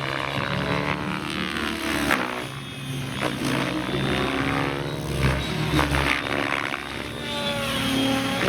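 Electric Align T-Rex 700X RC helicopter flying 3D aerobatics: rotor blades and motor whining, the pitch gliding up and down and the loudness swelling and dipping repeatedly as it is thrown through manoeuvres.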